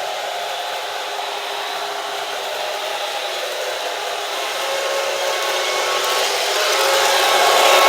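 Model PRR T1 steam locomotive running at speed on its track: a steady whir of its motor, gearing and wheels, growing louder over the last couple of seconds as it comes nearer.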